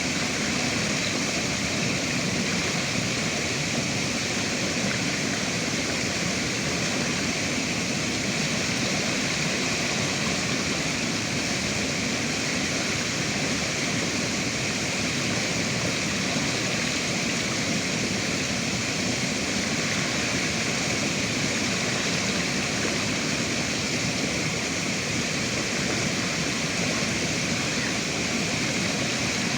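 River water rushing steadily, an even unbroken noise with no single splashes standing out.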